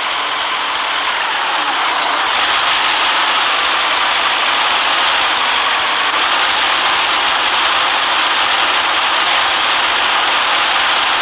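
Steady running noise of a city bus, engine and road noise together, with no marked changes.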